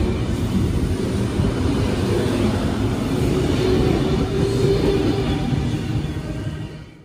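A Sydney Trains C set ("Chopper") double-deck electric train pulling out of the platform, a steady low rumble of wheels and running gear with a faint hum over it. The sound dies away quickly near the end.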